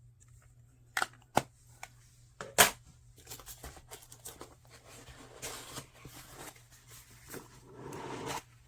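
Hand handling of an electric nail drill kit's packaging: a few sharp clicks and taps in the first few seconds, then continuous rustling and crinkling as items are lifted out of the box.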